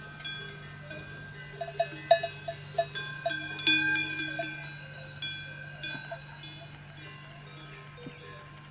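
Metal bells clanking irregularly, each strike ringing on in several tones, over a steady low hum.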